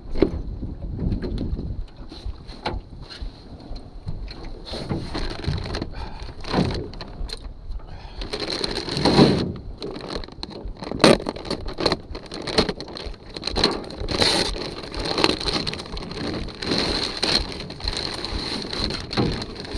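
Irregular knocks and clatter of gear being handled, over wind rumbling on the microphone.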